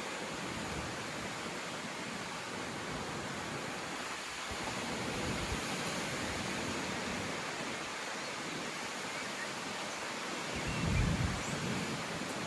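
Strong wind blowing steadily in a continuous rushing hiss, with low buffeting of wind on the microphone about eleven seconds in.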